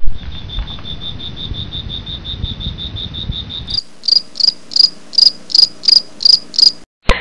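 Crickets chirping: a fast, even trill of high chirps over a low rumble for about the first four seconds, then a slower run of higher chirps about three times a second.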